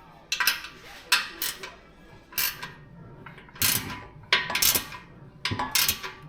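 Ratchet wrench clicking in short, irregular strokes while an exhaust pipe clamp is tightened.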